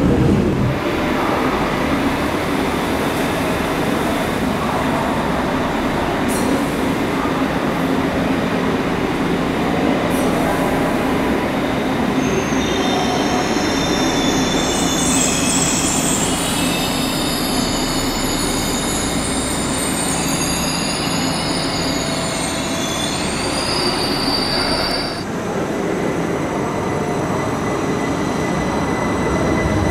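Trains moving through a large station: a steady rolling rumble, with high-pitched wheel squeal in several tones for roughly the middle half. The sound changes abruptly near the end as another train runs in.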